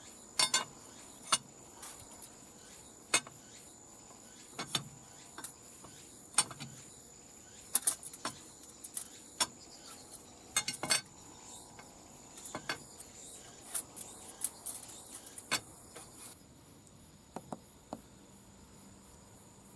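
Small metal tools clinking and tapping against a bare engine part in irregular, sharp clicks, a couple of dozen spread over the stretch. This fits the cylinder block deck being checked for warp, which turns out to be within limits.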